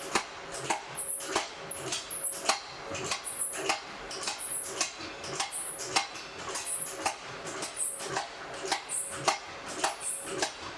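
Coal forge fire crackling, with irregular sharp pops and light clinks several times a second.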